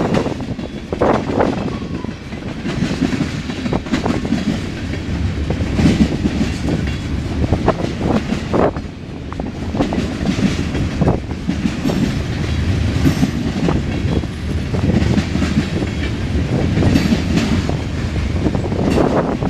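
Freight cars of a mixed freight train rolling past. The steel wheels rumble steadily and clack over the rail joints, with scattered sharp knocks.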